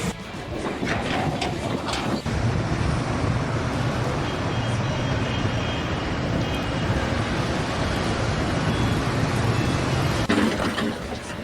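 Steady engine-like mechanical rumble, with a few sharp knocks in the first two seconds and a sudden change near the end.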